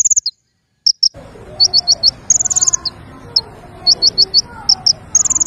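A small songbird calling in quick runs of three to five high chirps, alternating with short rapid trills. About a second in, a faint background of other lower bird calls and noise comes in beneath it.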